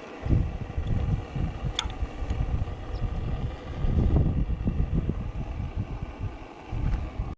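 McDonald PB two-stroke diesel engine running, its low exhaust beats uneven in strength.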